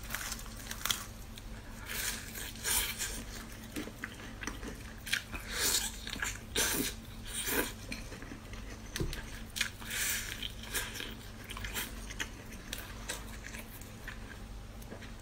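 Close-miked biting and chewing of a crispy breaded fried chicken cutlet: irregular crisp crunches coming in clusters, over a faint steady low hum.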